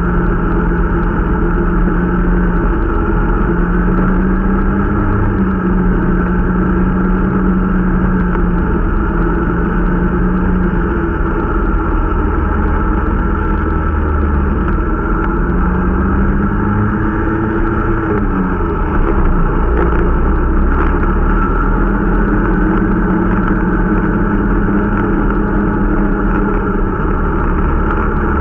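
Irbis Dingo T125 snowmobile engine running steadily under way during its break-in. The engine note wavers with the throttle, drops briefly about two-thirds of the way through, then picks up again.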